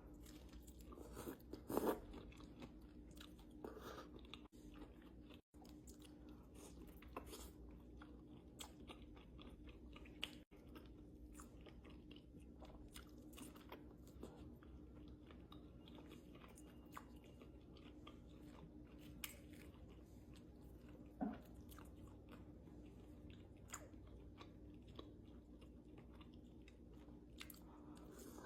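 Faint close-up chewing and crunchy biting of fried restaurant appetizers, in scattered small clicks and crunches, with a louder bite about two seconds in and another about twenty-one seconds in. A low steady hum sits underneath.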